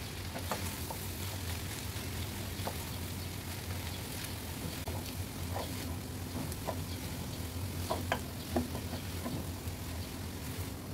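Shredded raw jackfruit sizzling gently in oil in a nonstick wok while being stirred with a silicone spatula, with scattered scrapes and taps of the spatula against the pan, a couple of them louder about eight seconds in. A steady low hum runs underneath.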